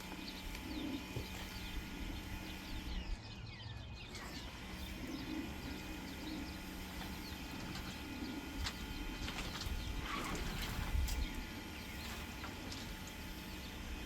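Outdoor background of birds calling and chirping over a faint steady low hum, with a few scattered light knocks.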